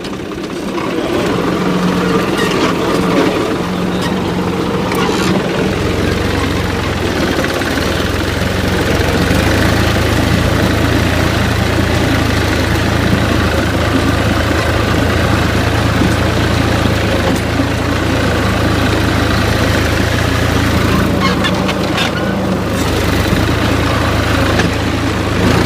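New Holland Al-Ghazi tractor's diesel engine running steadily under load. It grows louder about a second in, and from about six seconds in its low drone becomes heavier.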